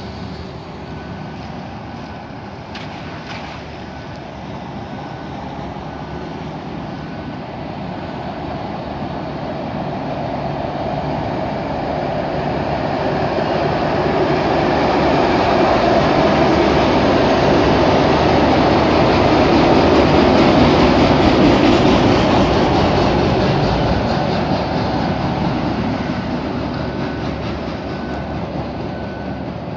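Long Island Rail Road work train passing on an elevated railway: a steady rumble that builds to its loudest about two-thirds of the way through, then fades as the train moves off.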